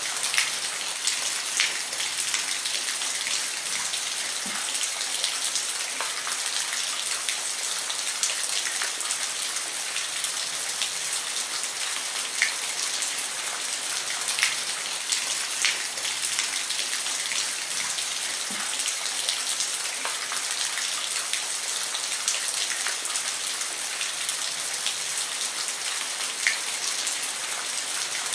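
Steady rain falling on a roof: a constant hiss of rain with frequent louder single drops ticking on top of it.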